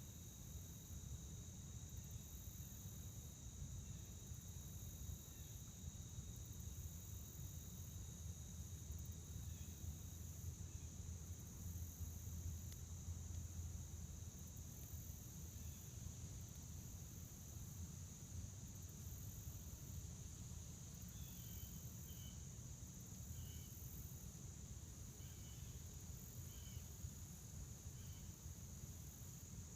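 Crickets and other insects trilling steadily in a chorus, with a higher insect pulsing slowly above them; one of the steady trills stops about a third of the way through. A few short bird chirps come in the last third, over a faint low rumble.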